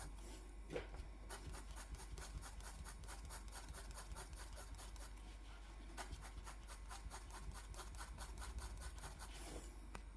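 Colouring tool scratching back and forth on paper in quick, even strokes, about five a second, faint, with a short break about a second in.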